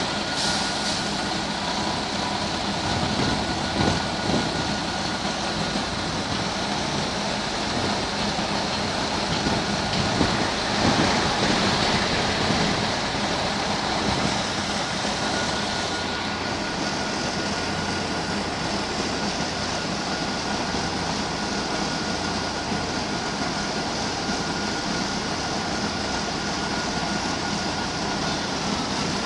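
Scania K94UB bus with its Scania D9C diesel engine running, a steady engine and vehicle noise with a faint steady high whine running through it.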